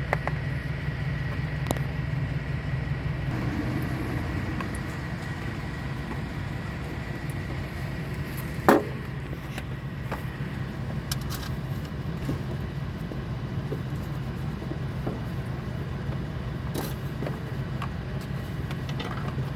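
An engine running steadily with a low hum, with scattered small clicks and one sharp knock about nine seconds in.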